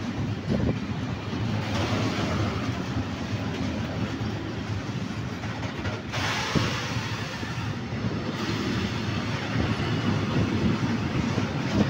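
Freight train of high-sided open wagons rolling past close by: a steady rumble of wheels on the rails, with a few sharp knocks.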